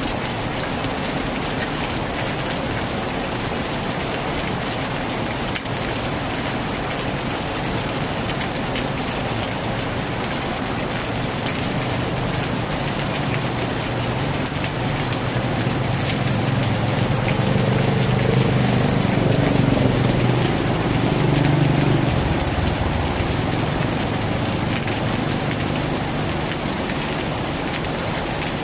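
Heavy rain drumming steadily on a tin roof. About halfway through, a low humming rumble swells, peaks and fades away over some ten seconds.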